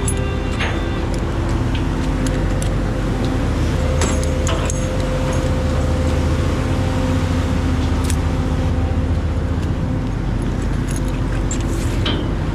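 A prawn trawler's engine running steadily, with a few short metallic clinks about four, eight and twelve seconds in.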